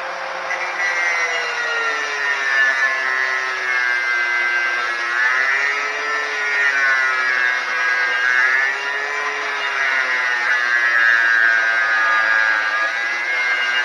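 Angle grinder working on metal: its motor whine drops in pitch about a second in as the disc bites, then wavers up and down with the pressure, over a steady grinding hiss.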